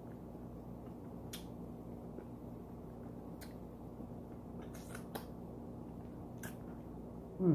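Close-up eating sounds: a handful of sharp, wet mouth clicks and smacks as fried chicken is chewed and picked off the bone, over a steady low hum. At the very end comes a brief vocal sound that falls in pitch.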